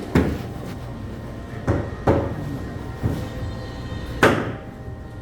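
A heavy knife or cleaver chopping fish on a cutting board: about five sharp chops at uneven intervals, the loudest near the end.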